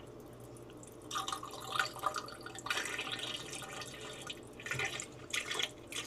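Water and alcohol mixture poured from a glass mason jar into a freeze dryer's drain hole, splashing and trickling unevenly, starting about a second in.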